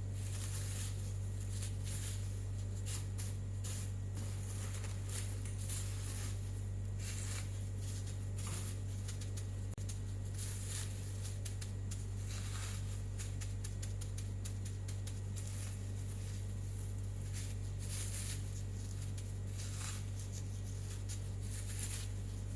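Kitchen cooking sounds: irregular light crackles and clicks over a steady low hum.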